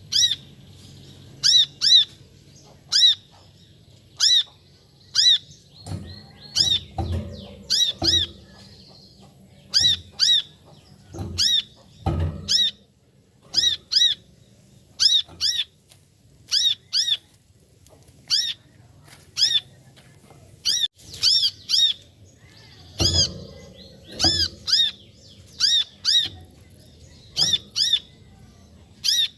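Brown-throated sunbird (kolibri kelapa) calling: short, sharp, high-pitched notes, mostly in pairs, repeated about once a second. A few dull low thuds come in between.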